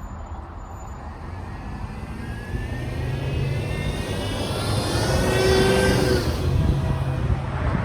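Union Pacific EMD diesel freight locomotives approaching a grade crossing, their engine rumble growing steadily louder. A whine that shifts in pitch rides over the rumble in the middle.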